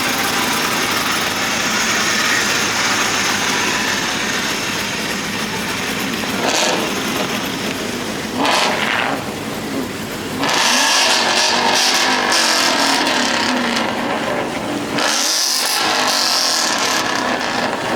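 Car engines running and revving, with a steady noisy background; the sound grows louder about ten seconds in and again about fifteen seconds in.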